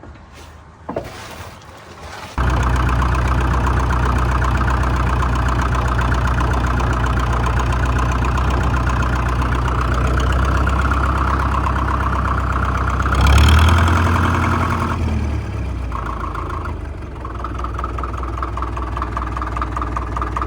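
International Harvester TD-9 crawler's diesel engine running steadily. It cuts in suddenly about two seconds in, swells briefly about two-thirds of the way through, then settles a little quieter.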